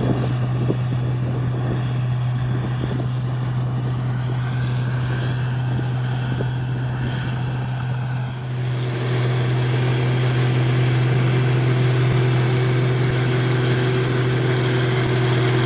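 New Holland 8060 combine harvester running steadily with a constant low hum while harvesting rice. About eight seconds in the sound dips briefly, then returns a little louder with a higher hum added.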